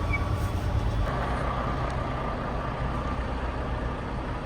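Semi-truck diesel engine running steadily with a low rumble.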